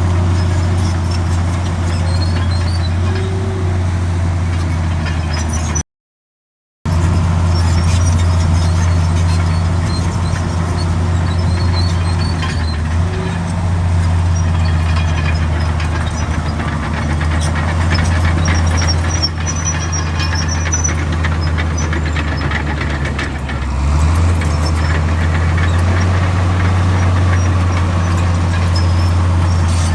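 Komatsu D65 bulldozer's diesel engine running steadily under load, with faint high squeaks from the tracks. About a second of complete silence breaks it early on, and the engine note shifts once near 24 seconds.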